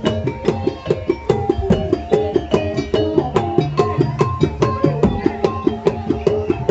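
Live East Javanese jaranan-style gamelan music: drums struck in a fast, even beat of about four strokes a second under a melody of short stepped pitched notes.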